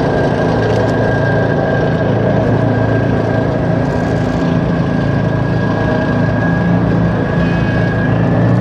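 Type 74 main battle tanks driving past, their air-cooled diesel engines running steadily under a constant high whine, growing slightly louder near the end.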